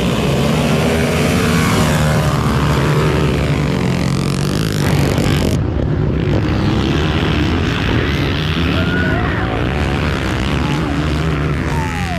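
Motocross dirt bike engines running and revving, the pitch rising and falling, with a sudden change in the sound about halfway through.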